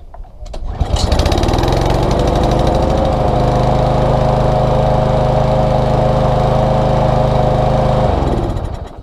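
Small lawn-mower engine pull-started, catching within about a second and running steadily for about seven seconds, then cutting out and winding down to a stop near the end.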